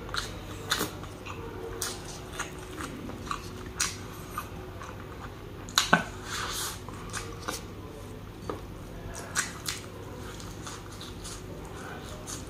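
Chewing and mouth sounds of a man eating rice and braised mutton, with wet smacks and sharp clicks scattered throughout. The loudest pair of smacks comes about six seconds in.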